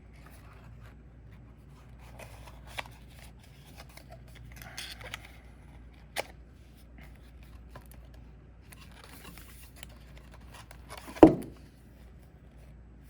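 Trading cards and their packaging being handled on a table: soft rustling with a few sharp clicks, and one loud thump about eleven seconds in.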